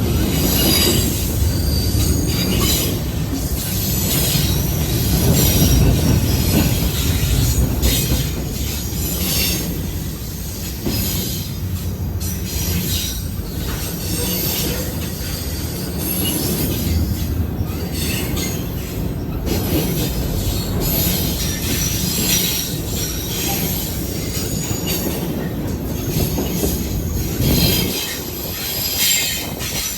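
A train's cars rolling past with a steady low rumble, the steel wheels squealing on and off against the rails.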